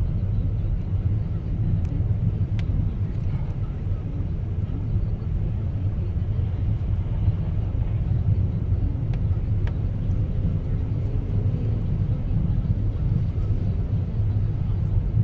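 Steady low rumble of a car driving: engine and tyre noise, with a few faint clicks.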